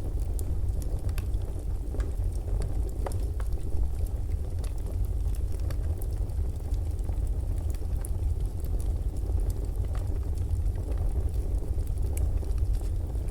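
Crackling fireplace fire: scattered sharp pops and snaps over a steady low rumble.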